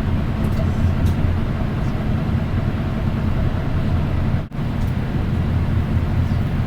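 Interior running sound of a Nissan Diesel Space Runner RM city bus under way: its diesel engine and road noise make a steady low drone. The sound briefly drops out about four and a half seconds in.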